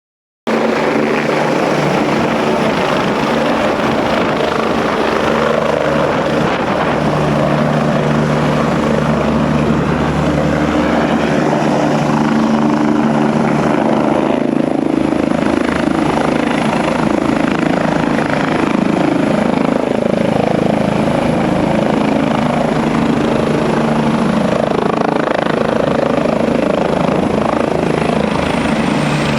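SAMU emergency medical helicopter running loud and close: steady rotor and engine noise with a thin high whine that dips slightly near the end.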